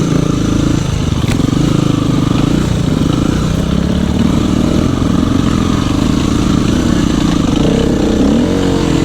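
Dirt bike engine running while being ridden on a trail, its pitch rising and falling with the throttle.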